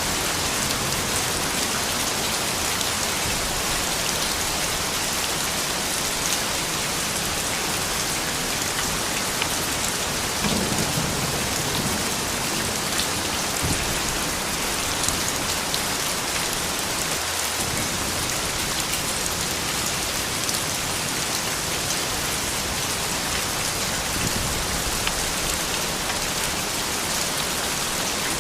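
Soft rain falling steadily, a dense even patter of drops on hard surfaces. A brief low rumble comes about ten seconds in.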